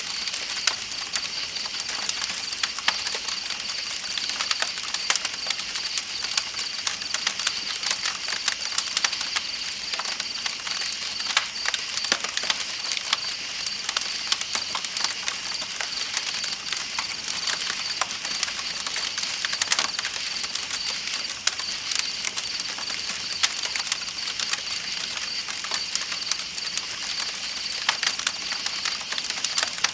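Campfire crackling with frequent sharp pops, over a steady high-pitched chorus of night insects and the hiss of flowing river water.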